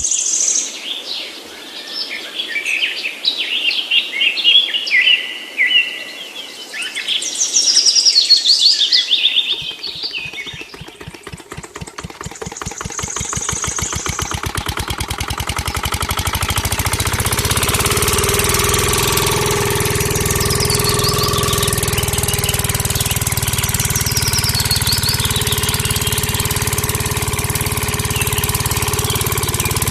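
Birds chirping, then about ten seconds in a small engine starts: its knocking beats speed up over several seconds and it settles into steady running.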